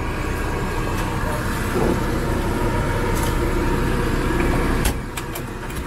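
Suzuki Multicab's 660cc K6A three-cylinder engine idling steadily with the air conditioning on, heard from inside the cab. A few sharp clicks come in the last second or so.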